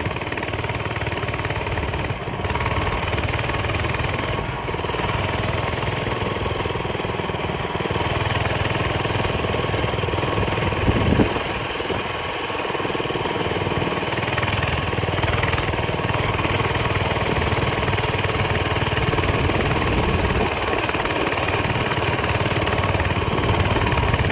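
Coleman mini bike's small single-cylinder four-stroke engine running steadily under way, with a brief louder burst about eleven seconds in.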